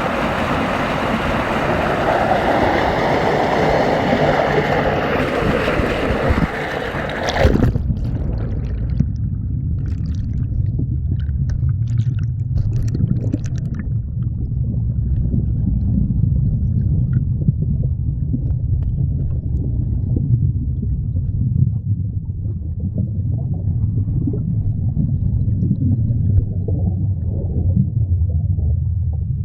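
Rushing water of a river waterfall, a loud full hiss that cuts off suddenly about seven seconds in. It gives way to a muffled low rumble of moving water with faint scattered clicks, as heard with the camera held underwater.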